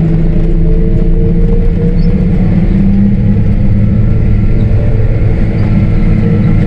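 Pickup truck engine running steadily as it drives along, a continuous low hum.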